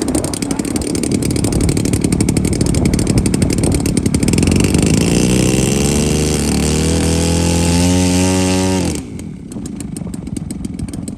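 Radio-controlled model aircraft engine running loud, its pitch climbing steadily from about four seconds in as it is throttled up, then cut off abruptly about nine seconds in, leaving a quieter steady noise.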